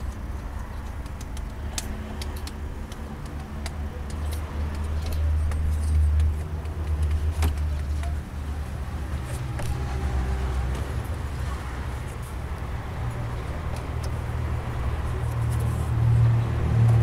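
Audi A4 B6 1.9 TDI four-cylinder diesel idling steadily, with scattered sharp clicks over the engine hum. The mechanic puts the noise down to a faulty accessory belt tensioner and its spring.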